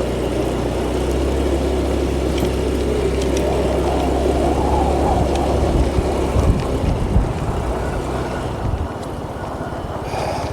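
Motorbike engine running, with wind noise over the microphone; about nine seconds in it drops to a quieter, evenly pulsing idle.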